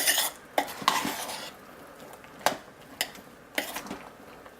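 A utensil knocking and scraping against a pot as chunks of curd soap are stirred in to melt: a short scrape at the start, then about five separate sharp clinks spaced irregularly.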